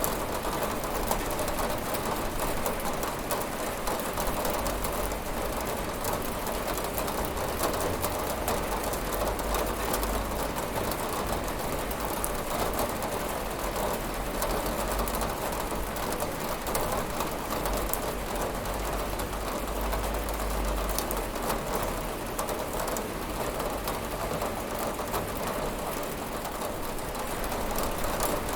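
Steady rain pattering on a window pane, a dense, even patter with a soft low rumble underneath.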